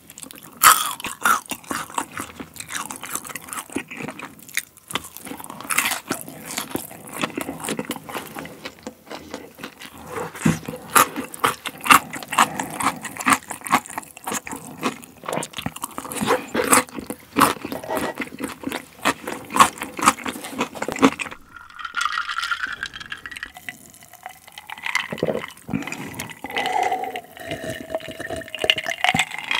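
Close-miked chewing of boneless fried chicken and rice, with many wet smacks and crunches. About twenty seconds in, it changes to gulps of an iced drink swallowed from a glass jar.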